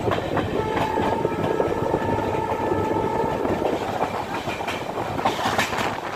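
Express passenger train running at speed, its wheels clattering over the rail joints, with a steady high tone for about three seconds early in the sound.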